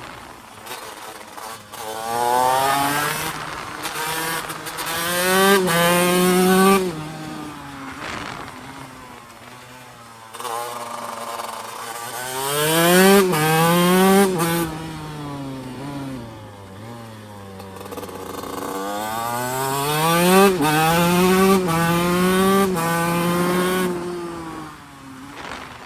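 TM Racing SMR 125 two-stroke single-cylinder engine accelerating hard through the gears, its pitch climbing and dropping back at each upshift. It then winds down as the throttle closes, and this happens three times over.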